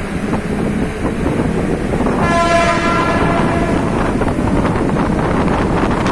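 Mumbai suburban local train running, heard from its open doorway: a steady rumble and rattle, with a train horn sounding for just under a second about two seconds in. In the second half there are clacks of the wheels over the rails.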